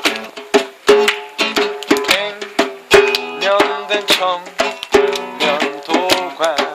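A guitar strummed in a steady rhythm, with a djembe beating along under it; instrumental passage of an acoustic song.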